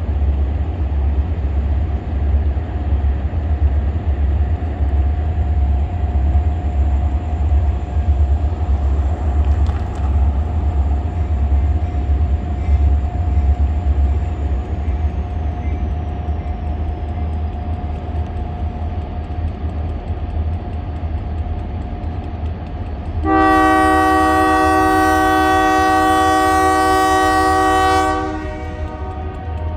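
Six-axle EMD diesel locomotives (SD40-2 and SD40-T) rumbling as they run, with a steady mid-pitched tone over the engine noise. About 23 seconds in, the locomotive horn sounds one long blast of about five seconds, louder than anything else.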